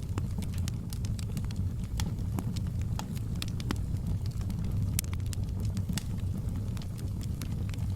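Wood fire burning in a fireplace, with a steady low rumble and frequent sharp, irregular crackles and pops.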